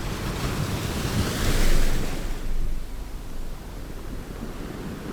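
Sea waves: a wave swells and breaks, loudest about a second and a half in, then washes back to a softer surf hiss.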